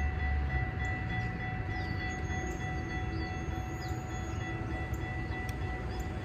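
Metra commuter train running past, a steady low rumble of the diesel locomotive and rolling cars, with faint steady high-pitched tones above it.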